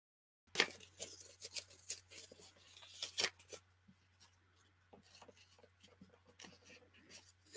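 Folded paper being torn and handled: a run of crisp crackling rustles, busiest in the first three seconds and sparser after, over a low steady hum.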